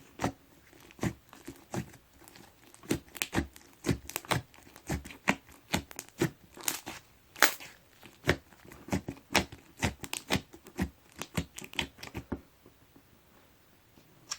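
Slime packed with bean bag foam beads being squeezed and pressed by hand, giving sharp, irregular crackles and pops about two or three a second. They stop about twelve seconds in.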